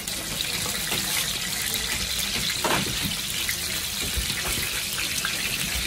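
Beef pancakes shallow-frying in a wide pan of hot oil: a steady sizzle, with one short click of a utensil about halfway through.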